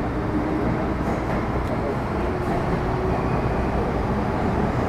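Metro Cammell M-Train (CT-Stock) with GEC GTO chopper traction running between stations: a steady rumble of wheels on rail and running gear, with faint steady whining tones above it.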